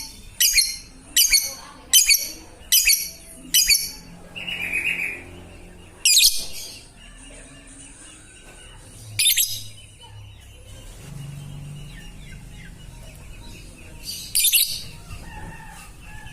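Lovebird giving sharp, shrill calls, repeated about every three quarters of a second for the first four seconds. A short, lower, buzzier call follows, then three more single shrill calls several seconds apart.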